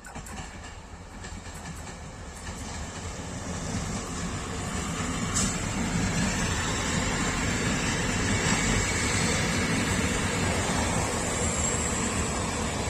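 RA3 diesel railbus approaching along the track. It grows louder over the first five or six seconds, then runs loud and steady as it passes, its wheels rolling on the rails.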